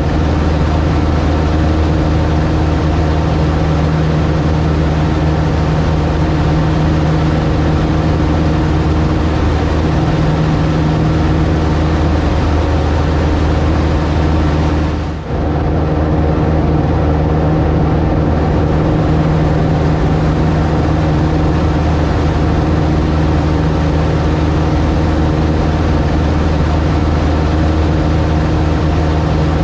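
Piper Cub light aircraft's piston engine and propeller droning steadily in flight, with a brief dip about halfway through.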